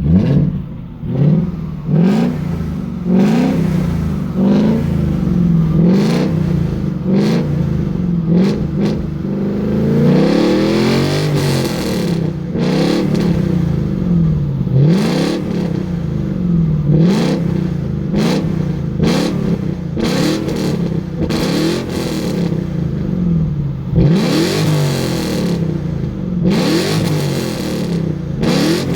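Audi S4 C4's 4.2-litre ABH V8 running and being revved over and over in short blips, each rising and falling back to idle.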